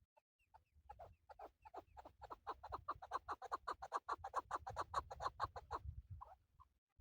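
Male chukar partridge calling: a long run of short, repeated clucking notes that starts slowly about a second in, speeds up and grows louder to several notes a second, then stops near the end.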